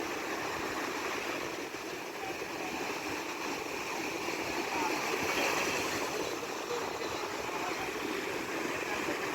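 Steady rushing noise of wind and water at sea, with no clear beat or single impact.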